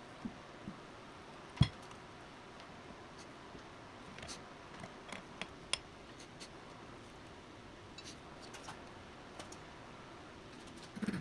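Scattered clicks and light metallic clinks of tools and small parts being handled, with one louder knock about a second and a half in.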